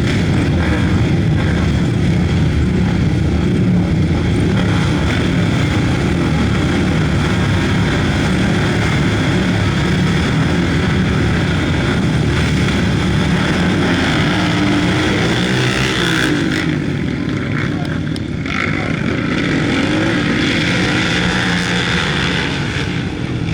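Several flat-track racing motorcycle engines running together, loud and steady, with revs rising and falling in the latter part.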